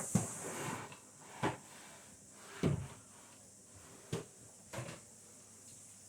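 Scattered household knocks and clunks, about five over a few seconds: cupboard doors and objects being handled while packing up a small cabin.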